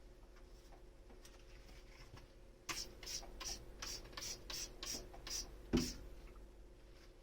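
Hand dishwashing: a run of about ten short scrubbing strokes in quick succession, then a single louder knock.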